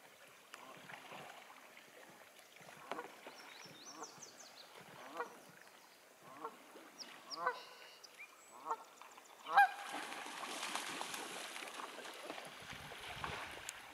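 Canada geese honking: a string of short, separate honks, the loudest about ten seconds in. After it, wings beat and water splashes for the last few seconds as the geese scramble across the lake surface.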